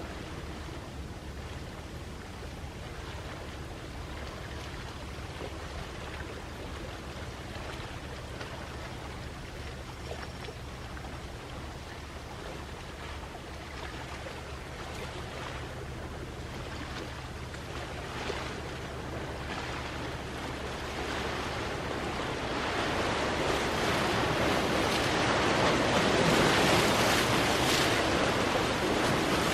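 Sea waves washing on the shore, a steady hiss of surf that swells into a louder breaking wave near the end. A faint low hum runs underneath until about two-thirds of the way through.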